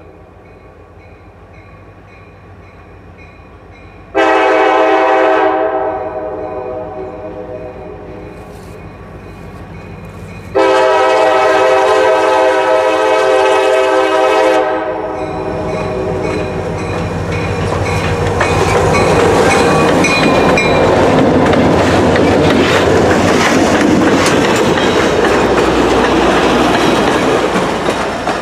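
Crossing bell ringing faintly, then a Buckingham Branch train's EMD GP40-2 and GP38-2 diesel locomotives sound their multi-note horn: a short blast, then a longer one. The locomotives' diesel engines then rumble past, followed by passenger cars whose wheels clatter over the rail joints.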